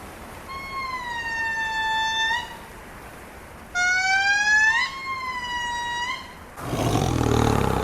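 Two long, clear, siren-like animal calls, each about two seconds, holding pitch and flicking upward at the end. A rough, low roar starts near the end.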